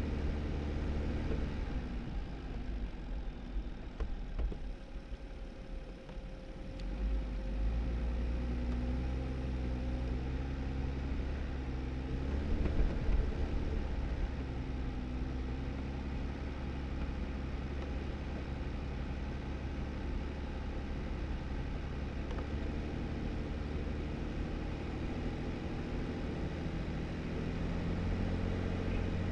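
Jeep Wrangler driving on a snowy back road: its engine runs steadily under a constant rumble of tyres and road noise. The engine note dips a few seconds in, then picks up again a few seconds later as it pulls away.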